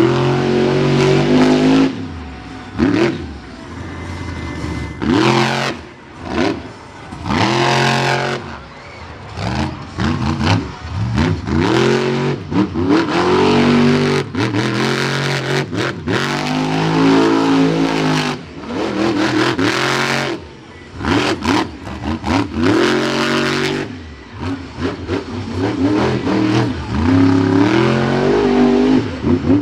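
Monster truck engine revving hard over and over during a freestyle run. The pitch climbs and drops every second or two, with brief lulls between bursts of throttle.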